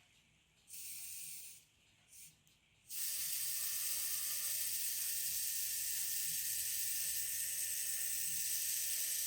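Small electric gear motors of a toy line-follower car running, a steady high whirring hiss with a faint whine. It comes in as two short bursts, then runs steadily from about three seconds in.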